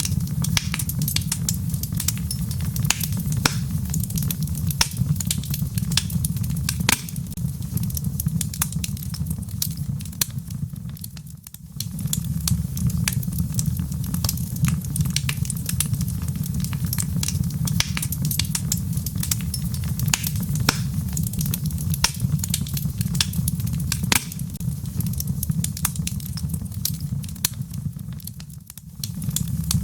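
Wood fire crackling in a fireplace: many sharp pops and snaps over a steady low rumble. The sound fades out briefly about a third of the way in and again near the end.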